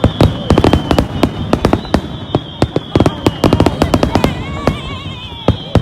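Aerial fireworks exploding in a rapid barrage, several sharp bangs a second, with a thin high whistling tone running above them.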